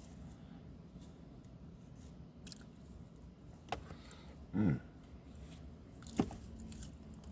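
A person eating: faint chewing and a few sharp mouth clicks, with one short pitched vocal sound, like a brief 'mm', about halfway through.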